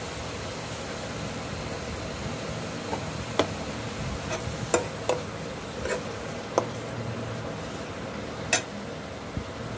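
Onion-garlic-ginger masala with green chilli sizzling quietly as it is roasted in a nonstick kadai on an induction cooktop, over a steady hum. A steel spoon clicks and taps against the pan several times as it is stirred, in the second half.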